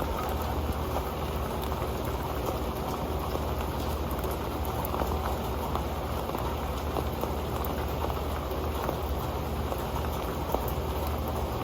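Steady rain falling on an old metal pan: a dense, even patter of drops.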